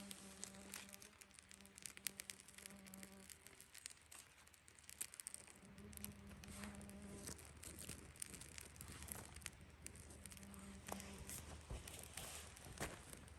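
A flying insect buzzing near the microphone, coming and going three times as it passes, over faint scattered clicks and crackles.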